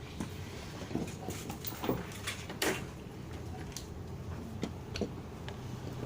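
Scattered knocks and clicks of parts and tools being handled, about eight in all, the loudest about two and a half seconds in, over a steady low hum.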